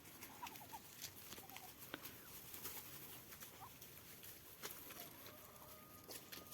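Ducks feeding on tangerines: faint short soft calls among scattered light pecking clicks.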